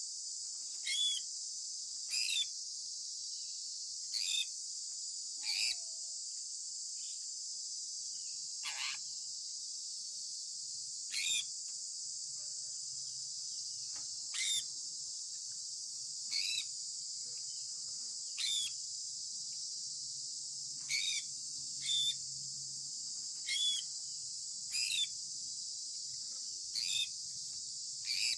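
Sun conure parrot giving short, sharp chirps, about fifteen of them at one every one to two seconds, over a steady high-pitched hiss.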